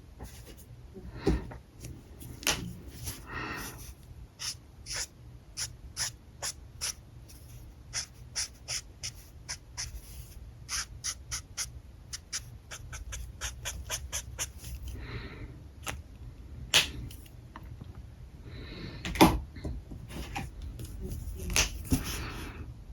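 Alcohol markers working on paper: a run of quick light ticks from dabbing and tapping strokes, with a few longer scratchy strokes and several sharper clicks.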